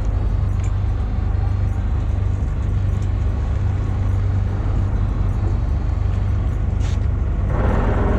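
Fishing boat's engine running steadily with a low hum. A short rush of noise comes about a second before the end.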